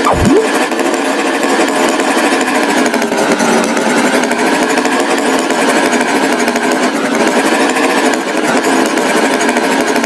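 A motor running loudly and steadily with a slightly wavering pitch, with a brief rising whoop right at the start.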